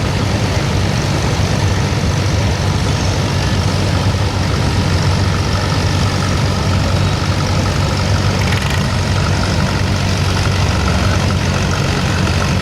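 Modified pulling tractor's engine running at a steady speed, a deep even drone with no revving up or down.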